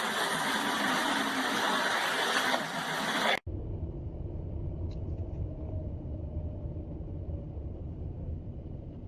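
Vehicle engine and road noise picked up by a dashcam. About a third of the way in it cuts off abruptly and gives way to a lower, steady engine rumble.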